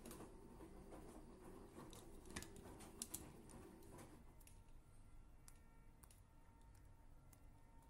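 Faint scattered clicks of small objects being handled, over a low hum that fades out about four seconds in.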